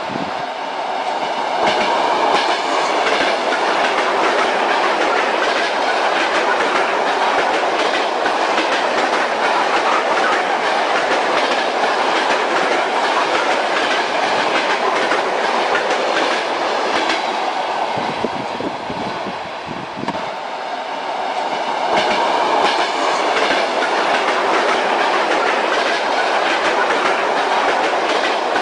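Train wheels clattering over rail joints: a steady clickety-clack over the rumble of a moving railway carriage. It eases off for a few seconds about two-thirds of the way through, then builds again.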